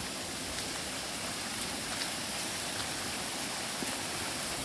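Stream water rushing steadily through the wasabi beds, with a few faint ticks.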